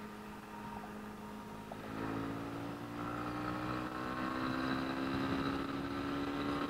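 Single-cylinder engine of a Honda CB300R motorcycle running steadily, then picking up revs about two seconds in, its pitch climbing slowly as the bike accelerates.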